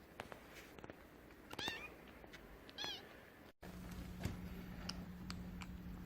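A kitten mewing twice, short high-pitched mews a little over a second apart. After a cut, a steady low hum with a few faint clicks.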